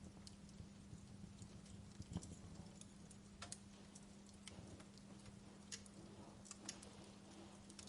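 Wood logs burning in a fireplace, crackling with irregular sharp pops and snaps, one stronger snap about two seconds in, over a faint steady low hum.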